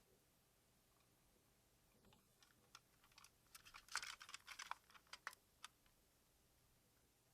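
Faint clicks and taps of hard plastic toy parts being handled, a quick cluster of clicks in the middle, then a few single clicks.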